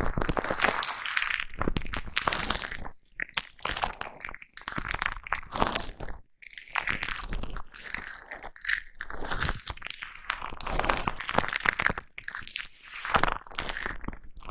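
A foam brush rubbed and pressed against a microphone, giving a close, crackly scratching and squishing in bursts of a second or two with short pauses between them.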